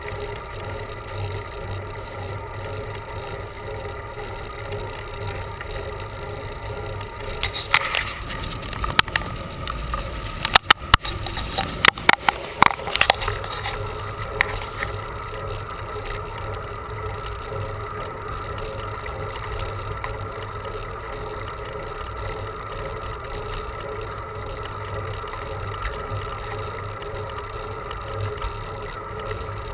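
Bicycle riding on a road, heard from the bike: a steady hum with low rumble. A cluster of sharp clicks and knocks comes about eight to fourteen seconds in.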